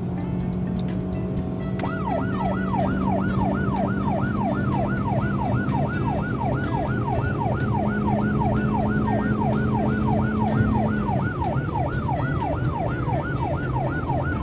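Emergency-vehicle siren starting about two seconds in, rapidly sweeping up and down in pitch about three times a second, over a steady low hum.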